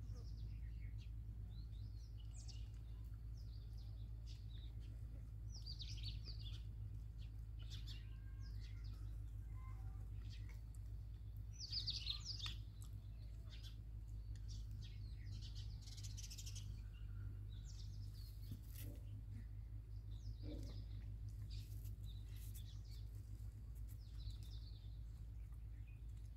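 Birds chirping in short, scattered calls, with a louder flurry about halfway through, over a steady low hum.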